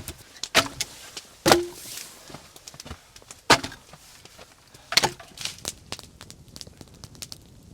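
Wood cracking sharply: four loud cracks a second or two apart with smaller snaps between, as firewood is broken up to feed a campfire.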